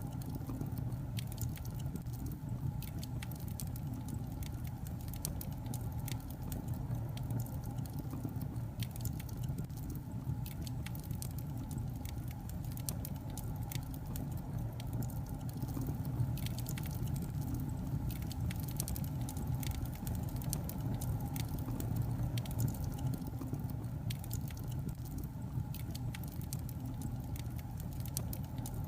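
Logs burning in a fireplace, crackling with many small irregular snaps over a steady low rumble from the fire.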